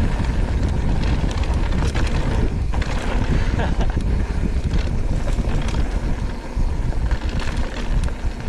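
Wind buffeting the microphone while riding a mountain bike on a dirt trail, with low tyre rumble and frequent short clicks and rattles from the bike over rough ground.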